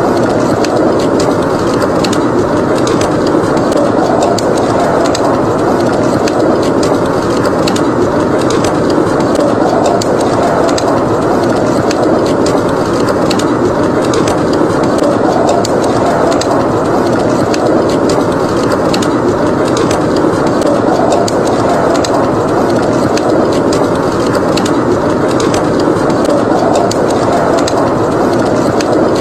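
Steady blizzard wind blowing, slowly swelling and easing, over a wood fire crackling with frequent small sharp pops.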